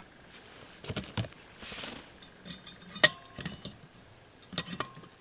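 Light metallic clinks and taps from handling a Shmel-1 primus stove as it is readied for lighting after priming fuel has been let out. The sharpest clink comes about three seconds in.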